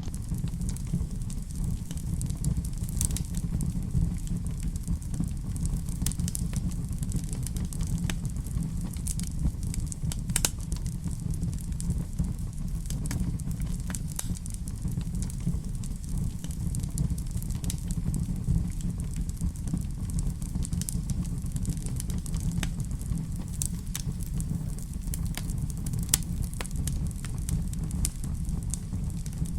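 Wood fire crackling in a fireplace: a steady low rumble with frequent small, sharp pops and snaps scattered irregularly throughout.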